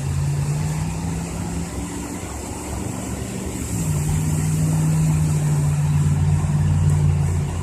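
A motor vehicle engine running with a steady low hum, its pitch stepping up slightly about four seconds in.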